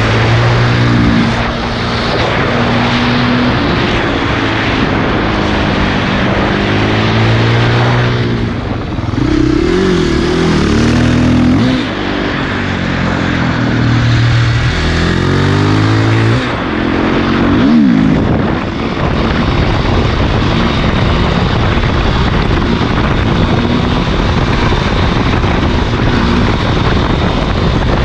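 2006 KTM 450 EXC single-cylinder four-stroke supermoto with an Akrapovic exhaust being ridden hard, its engine note climbing through the revs and dropping back again and again as it shifts, then running more steadily in the last third. A constant rush of noise runs under the engine.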